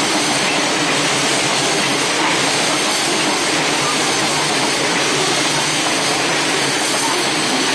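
Container wagons of a freight train rolling past at speed: a loud, steady noise of wheels running on the rails.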